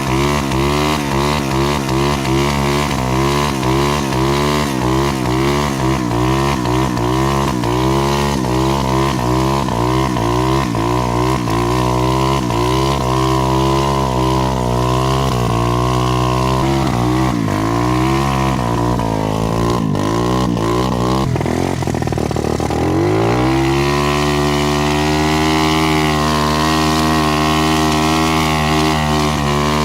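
Dirt bike engine being ridden, the revs rising and falling about twice a second for most of the time. Past the middle the revs sink low, then climb and hold steady and high.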